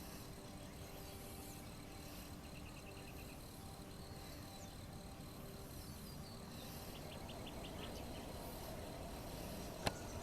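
Faint wetland ambience: a steady hiss with a faint insect hum. About two and a half seconds in, and again about seven seconds in, there is a brief rapid ticking trill. A single sharp click comes near the end.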